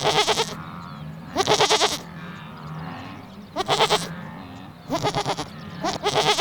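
Goat bleating five times at irregular intervals of one to two seconds, each bleat a short wavering call.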